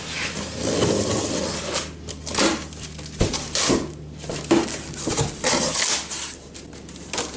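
Cardboard box and packaging being handled and pulled open, a run of scraping and crinkling with several sharp knocks.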